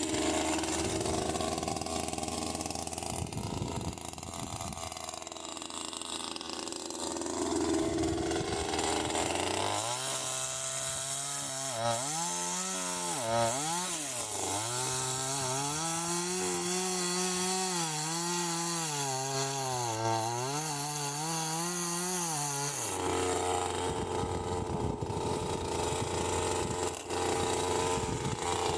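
Two-stroke chainsaw running and cutting firewood logs, its engine pitch dipping and rising as the chain bites into the wood. Through the middle stretch the engine note stands out clearly and wavers up and down; before and after it, the sound is a rougher, noisier saw sound.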